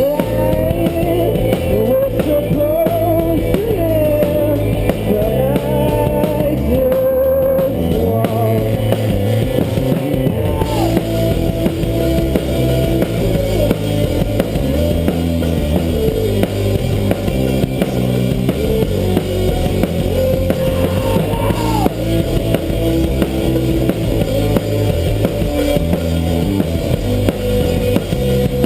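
A rock band playing live, with a drum kit and guitar. A melody line runs over the band for the first ten seconds or so.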